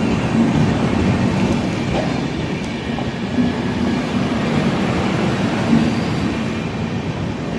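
Indian Railways passenger express train rolling along the track at the platform, a loud steady rumble of its coaches and wheels on the rails.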